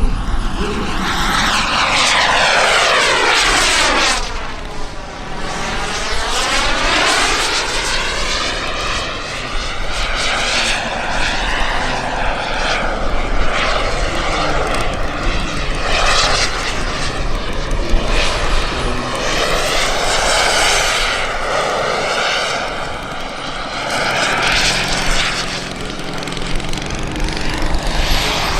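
Turbine engine of a Carf Mephisto V2 RC jet in aerobatic flight, a loud jet rush that swells and fades as the model passes. The rush takes on a sweeping, phasing sound as it goes by, most strongly a few seconds in.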